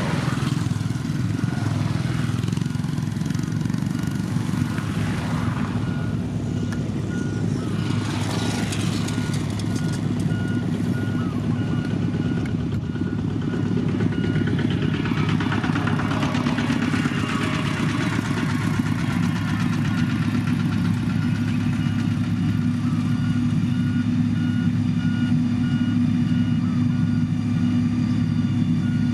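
Heavy construction machine's engine running steadily. A reversing alarm starts about a third of the way in and beeps in a regular series.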